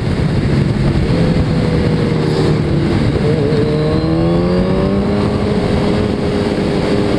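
Suzuki Hayabusa's inline-four engine running at highway speed under a heavy rush of wind noise. A little after three seconds in, its pitch climbs steadily as the bike accelerates, then holds at the higher note.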